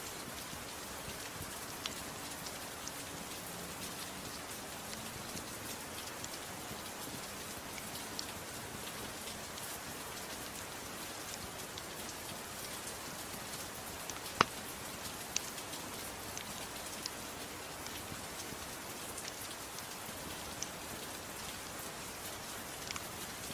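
Steady gentle rain falling, an even hiss, with scattered sharp pops from a crackling wood fire; the loudest pop comes a little past halfway.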